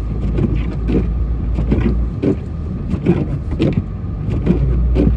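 Pickup truck driving through snow, heard from inside the cab: a steady low engine and road rumble with short knocks and crunches about every half second.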